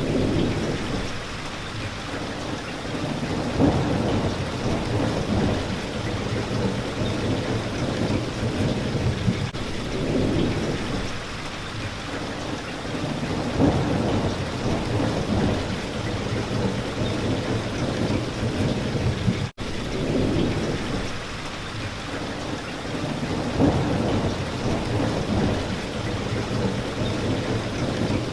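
Steady heavy rain hitting a window pane, an even hiss with a low rumble that swells and fades about every ten seconds. The sound cuts out for an instant about two-thirds of the way through.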